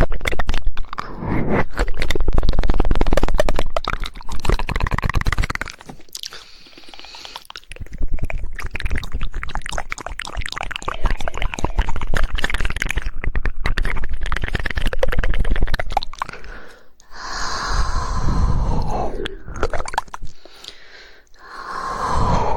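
ASMR mouth sounds close to the microphone: rapid "woodpecker" tongue clicking in fast click trains, mixed with wet mouth noises. The sound drops off briefly twice.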